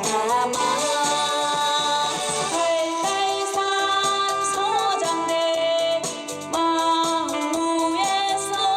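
A singer performing a Korean trot song with instrumental accompaniment, holding long notes with vibrato.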